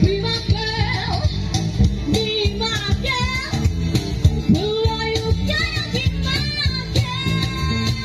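Live rock band playing, with a bending lead melody over a steady driving beat.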